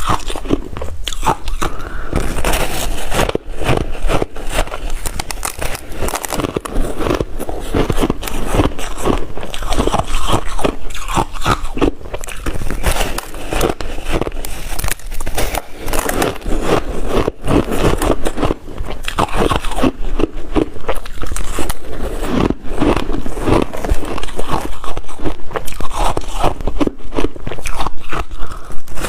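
Close-up crunching and chewing of water-dipped shaved ice, with many irregular crackling bites, a little louder near the end.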